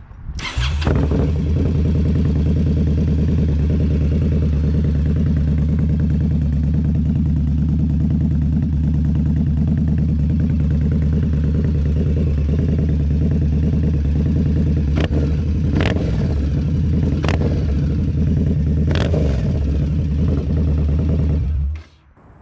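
A 2020 Indian Scout's V-twin engine running at a steady, even speed through Dean Speed Rampage slip-on exhausts with the baffles removed, much louder than baffled. A few sharp clicks sound in the second half, and the engine sound cuts off abruptly near the end.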